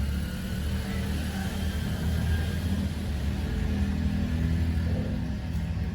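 A steady low mechanical rumble with a faint higher tone over it.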